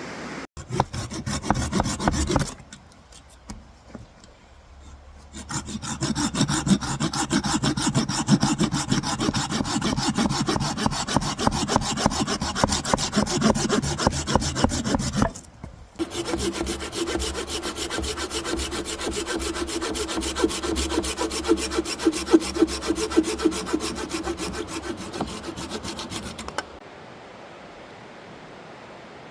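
Hand coffee grinder grinding beans: a continuous gritty rasping crunch in three long stretches, with short pauses about two and a half and fifteen seconds in, stopping shortly before the end.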